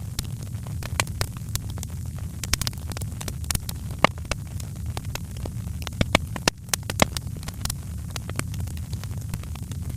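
Wood fire crackling in a fireplace: frequent irregular pops and snaps over a steady low rumble of burning, with a few louder pops about four, six and seven seconds in.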